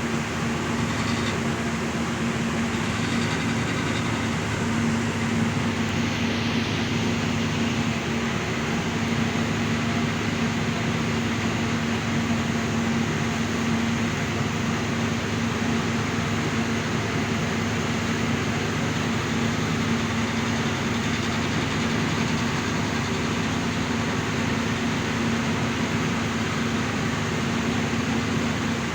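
An engine or motor running steadily at constant speed, with an even hum over a broad noise.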